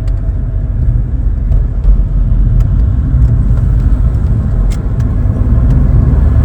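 Interior drone of a 1992 Vauxhall Cavalier's 2.0-litre 8-valve four-cylinder (C20NE) engine and road noise as the car drives, growing louder near the end as the engine picks up under acceleration.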